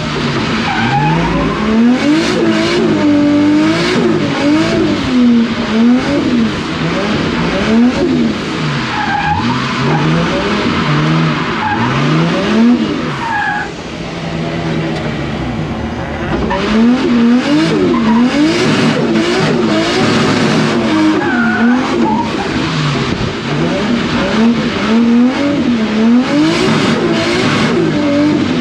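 Drift car's engine revving hard, its pitch climbing and dropping again every second or two as the throttle is worked through a drift, over the hiss of sliding, skidding tyres. About halfway through it eases off briefly, then picks up again.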